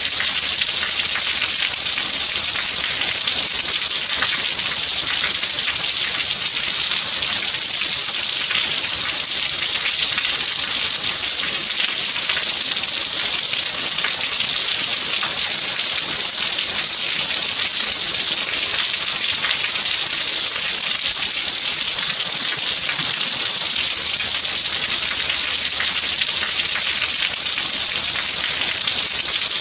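Steady rain, an even hiss made of many small drops falling.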